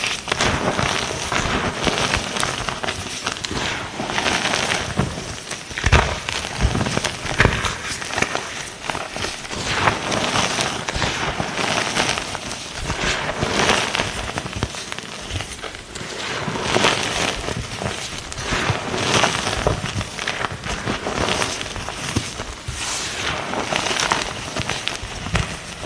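Blocks of gym chalk being crushed and crumbled, a continuous crisp crunching and crackling with many small cracks, swelling in bursts every second or two.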